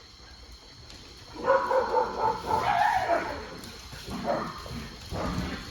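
A dog's high, wavering calls, lasting about two seconds from about a second and a half in, then a few shorter, fainter sounds.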